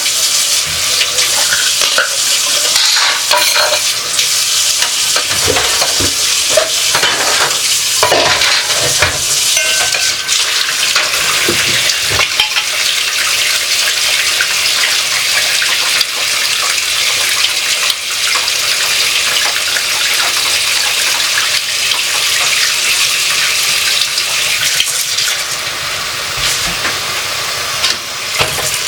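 Kitchen tap running steadily into the sink while dishes are washed by hand, with scattered clinks and knocks of dishes and cutlery.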